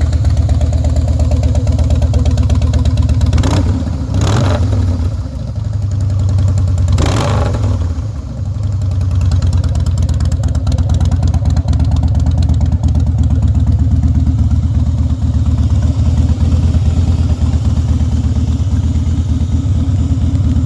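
Harley-Davidson V-twin through Vance & Hines Straightshots exhaust, idling steadily. The throttle is blipped three times: twice in quick succession about three and a half seconds in, and once about seven seconds in, each rev dropping straight back to idle.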